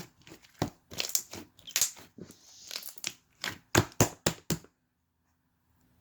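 Homemade slime being squished and poked by hand, giving an irregular run of sharp pops and crackles from trapped air. The sounds stop abruptly about three-quarters of the way through.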